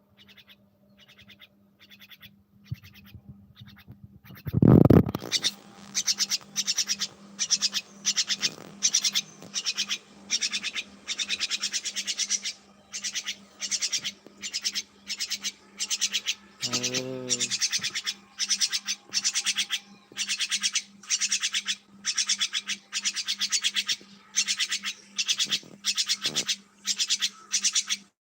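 Birds calling in short, harsh, raspy bursts, about two a second, with one loud thump about five seconds in. A brief lower call breaks in about two thirds of the way through.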